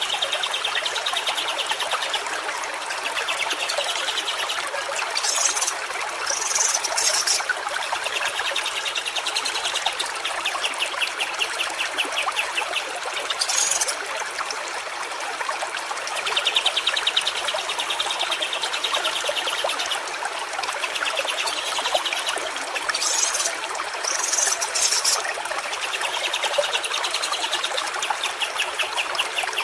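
Small stream trickling and splashing steadily. Over it, a rapid trill repeats every few seconds, each lasting a second or two, with a few short, very high chirps between.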